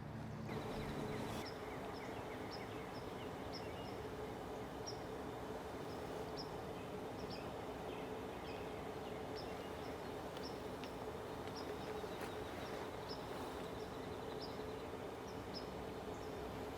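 Open-field evening ambience: a steady low hum and hiss, with a short high-pitched peep repeated every half second or so by a small calling animal.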